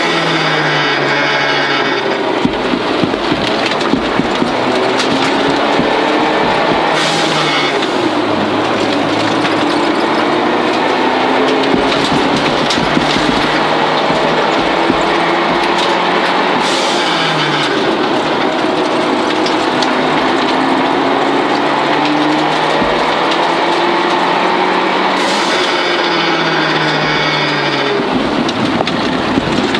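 Inside the cabin of a 1989 Toyota Celica GT-Four rally car at full pace: its turbocharged four-cylinder engine revving hard, rising in pitch through each gear and dropping at each change, over loud tyre and road noise. Three short hisses come at about 7, 17 and 25 seconds.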